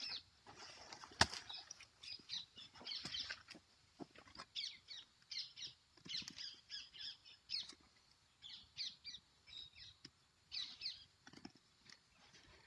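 Birds chirping outdoors in many short, high calls, repeated throughout. A single sharp knock sounds about a second in.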